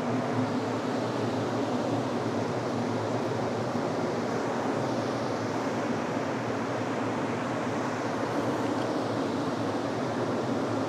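Steady machine drone: an even rushing noise over a low hum, unchanging throughout.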